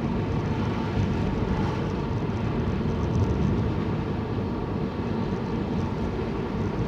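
Steady low rushing noise of wind and tyres on a wet road while travelling in the rain, with no distinct events.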